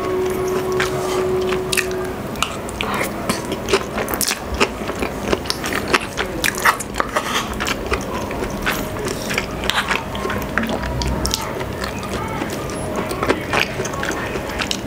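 Close-miked eating: chewing and biting braised pork, with many small clicks from mouth and utensils as a wooden spoon and fork work on a wooden plate.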